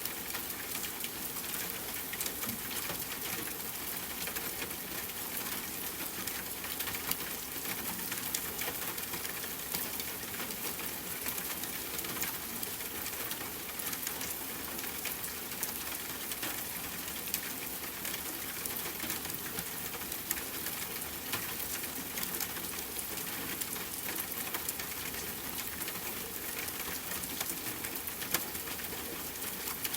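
Steady rain hiss with frequent small, sharp crackles and ticks throughout, a campfire crackling under the rain.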